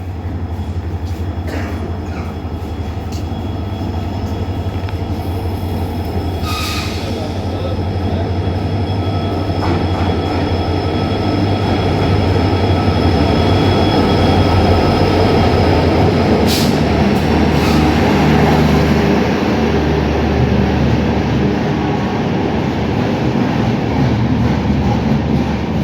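Passenger train pulling into a station platform: a loud, steady rumble of the locomotive and coaches that grows louder, with thin high squealing tones from the wheels.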